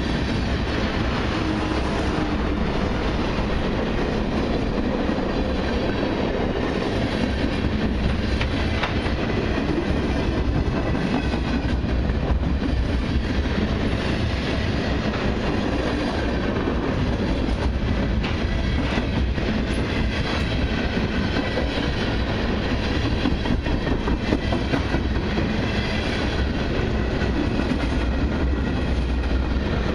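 Freight cars of a long mixed and autorack train rolling steadily past, with a continuous rumble of steel wheels on rail and rhythmic clickety-clack.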